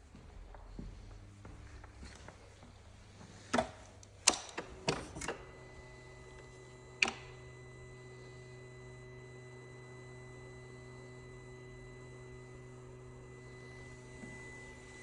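A few sharp clicks and knocks, then from about five seconds in a faint steady electrical hum with a thin high tone: a BMW S1000RR being readied and switched on just before its engine is cold-started.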